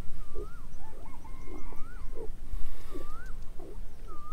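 A bird repeats a clear whistled call about four times, each note holding, then rising and dropping. Short lower hooting notes sound between the whistles over a steady low rumble.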